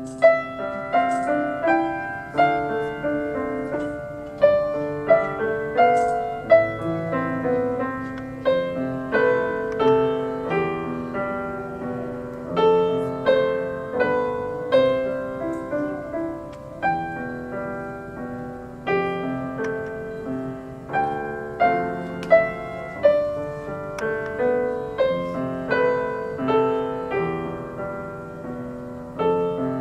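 Piano duet, two pianists playing together: a steady stream of struck piano notes, melody over accompaniment, starting right at the beginning.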